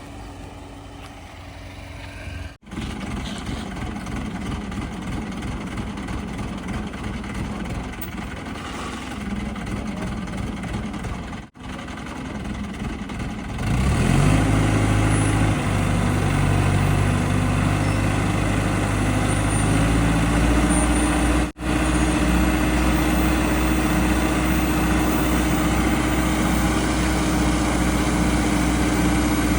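Heavy diesel engine of earth-moving machinery running, in several short cuts. About fourteen seconds in, a louder engine revs up and then holds at a steady high speed under load, rising slightly again some seconds later.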